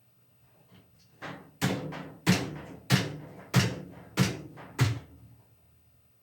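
Hammer blows at an even pace on a metal part of a top-loading washing machine being reassembled: a light tap, then six hard strikes a little over half a second apart, each ringing briefly.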